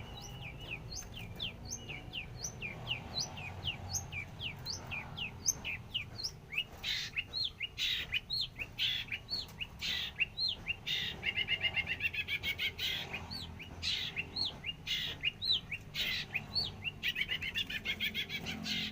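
Long-tailed shrike (cendet) singing non-stop: a rapid stream of short, sharp chirps that sweep down in pitch, broken twice by fast trilled runs.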